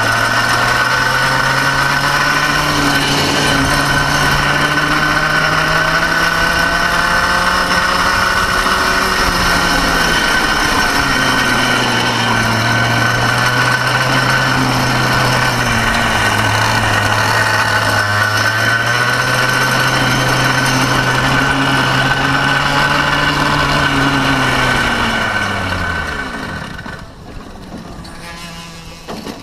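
Go-kart engine running with its pitch rising and falling with the throttle, then sliding down and cutting out about 26 seconds in: the engine, badly down on power, stalling for the last time.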